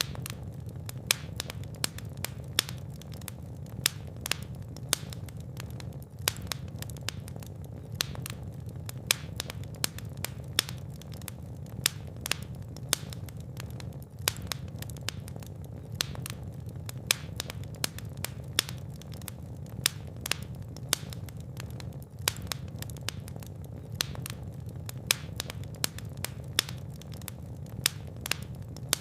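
Fire in a fireplace crackling, with frequent sharp irregular pops over a steady low rumble of flames. The loudness briefly dips about every eight seconds.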